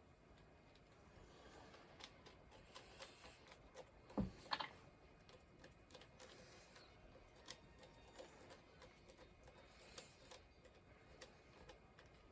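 Faint, scattered clicks and ticks of a small screw being driven into the plastic body of a Dyson hairdryer, with one louder click about four seconds in.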